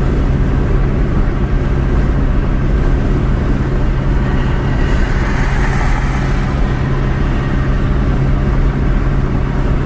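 Steady road and engine noise inside a moving car, with a constant low hum and a brief swell of higher hiss about halfway through.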